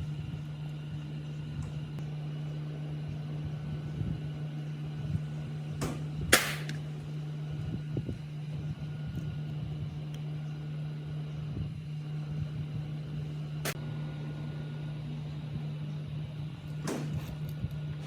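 Handling noises: scattered light knocks and three sharp clicks, the loudest with a brief ring about six seconds in, over a steady low hum.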